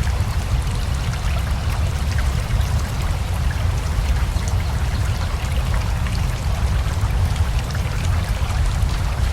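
Steady rain mixed with a flowing river: a constant watery rush with a deep low rumble and scattered drops ticking through it.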